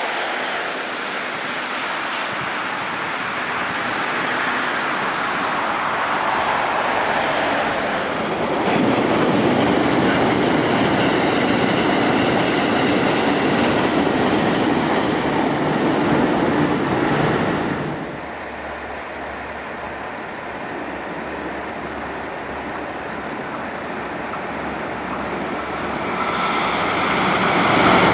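JR Kyushu 787-series electric express train running past on the rails with a steady rumble and clickety-clack from the wheels. It is loudest in the middle, cuts off abruptly about eighteen seconds in, and swells again near the end as the train comes by once more.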